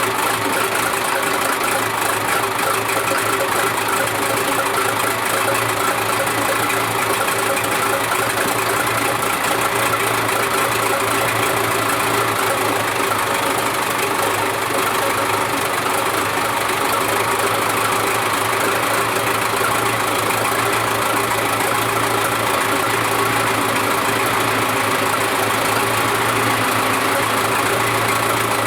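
Valtra T160 tractor's diesel engine idling steadily, freshly cold-started.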